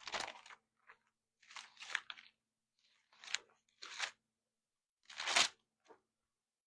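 Thin Bible pages rustling and crinkling in about six short bursts as they are leafed through to find a passage.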